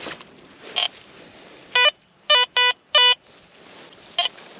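Garrett Vortex VX9 metal detector sounding target tones as the coil sweeps over a buried target: several short buzzy beeps, most of them bunched together between about two and three seconds in.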